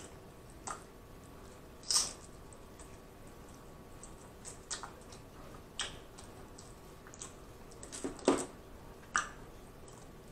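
Close-miked eating of saucy barbecue ribs: scattered wet smacks and clicks of lips and chewing, about nine at irregular intervals, the loudest about two seconds in and just after eight seconds.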